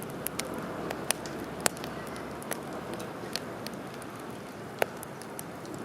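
Wood campfire crackling: irregular sharp pops and snaps over a steady low hiss, a few of the pops much louder than the rest.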